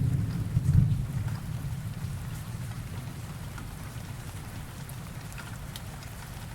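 Steady rain with scattered drop ticks, under the tail of a thunder rumble that peaks about a second in and dies away over the next few seconds.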